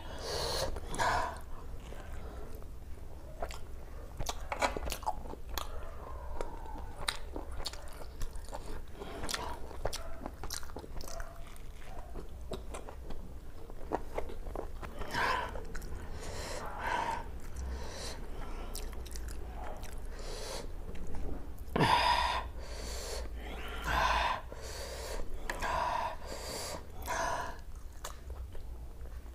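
Close-miked chewing and biting of steamed chicken momos, with wet mouth clicks and smacks throughout. Louder clusters of mouth sounds come in the second half.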